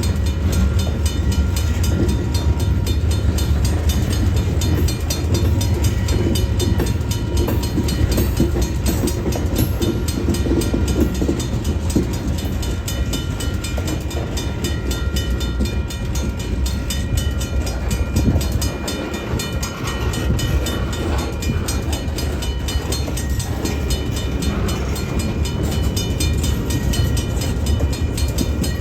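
Freight train rolling past: a steady, heavy rumble of car wheels on the rails with rapid clicking over the track.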